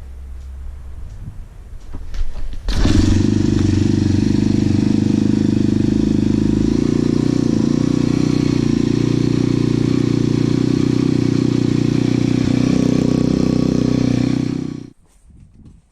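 MRF 140 RC pit bike's 140 cc single-cylinder four-stroke engine catching about three seconds in on a cold start at −10 °C after two weeks standing, then running at a steady idle before cutting off suddenly near the end.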